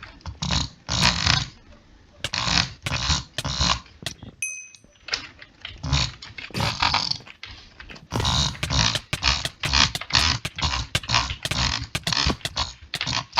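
Clicking and rough, rattling mouth noises in irregular bursts of about half a second to a second, with short pauses between them and a brief high squeak about four and a half seconds in.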